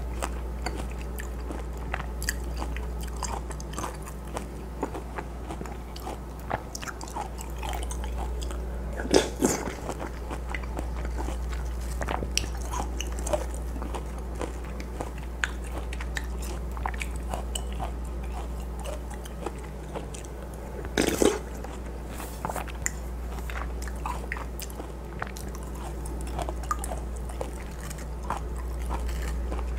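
Close-miked eating sounds: a person biting and chewing spoonfuls of watermelon punch (hwachae) with wet mouth clicks throughout, and two louder moments about a third and about two-thirds of the way through. A steady low hum runs underneath.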